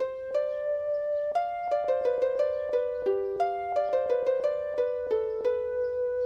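Gentle background music of plucked strings, a harp-like melody of notes a few per second, each ringing and fading.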